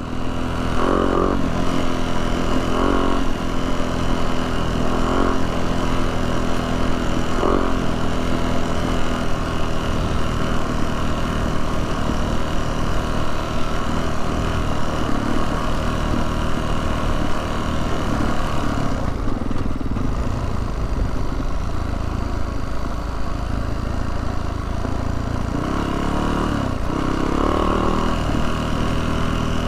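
Yamaha YZ450F dirt bike's four-stroke single-cylinder engine running at a fairly steady speed; its note softens about two-thirds of the way through and picks up again near the end.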